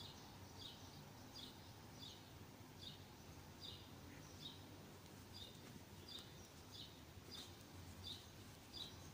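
A bird chirping faintly: short, high chirps repeated steadily about once every three-quarters of a second, over a quiet room hum.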